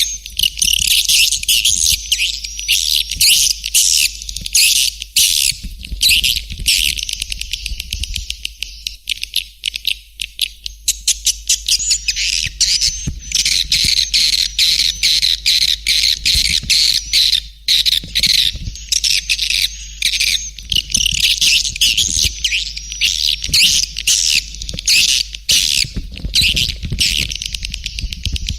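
Swiftlets twittering: a dense, unbroken stream of rapid high chirps from many birds. It is a swiftlet lure call, the kind played to draw swiftlets into a nesting house.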